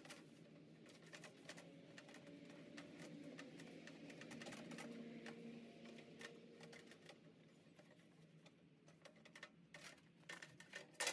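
Near silence with faint, scattered clicks and taps, and a sharper cluster of clicks near the end.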